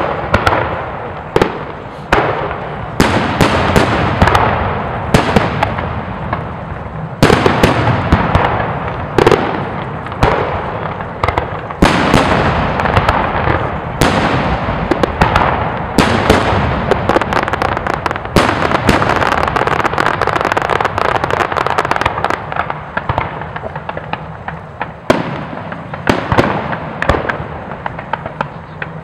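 Aerial firework shells bursting in quick succession: sharp bangs every second or so, each followed by an echoing rumble, with dense crackle from the bursting stars filling the gaps.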